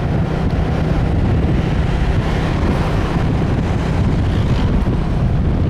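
Steady rush of wind buffeting the microphone of a handheld camera on a moving motorbike, with the bike's engine and road noise underneath.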